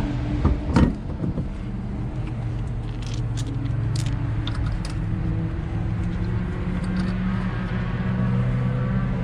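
Car engine running steadily at a low, even speed, with a couple of knocks in the first second and a few light metallic ticks a few seconds in.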